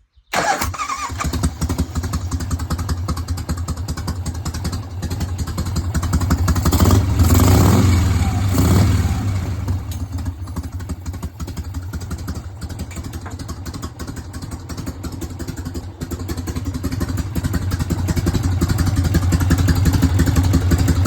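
1988 Harley-Davidson Softail's 1340 cc Evolution V-twin catching and starting right at the outset, then running with the air cleaner cover off. The throttle is blipped twice about seven to nine seconds in, likely to check the accelerator pump squirters, before the engine settles back to idle, getting louder again near the end.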